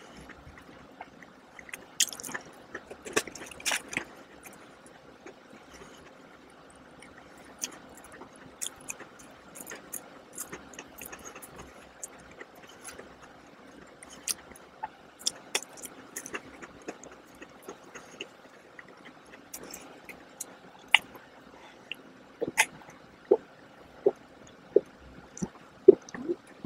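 Close-miked eating sounds of a person chewing small cookies: wet mouth clicks and smacks, with sharper clicks coming more often in the last several seconds.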